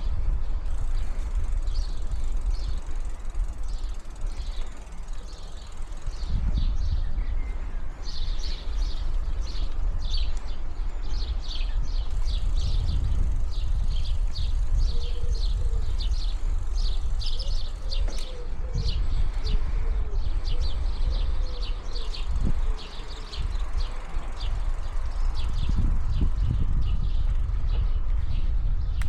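Low rumble of wind on the microphone and tyres rolling during a bicycle ride, with small birds chirping rapidly and repeatedly over it.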